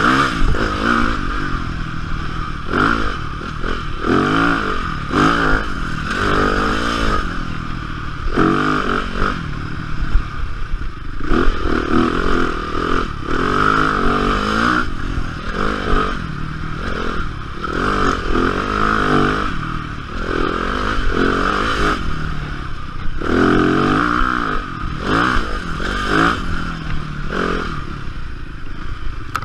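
Yamaha dirt bike engine revving up and falling back again and again while riding a sandy forest trail.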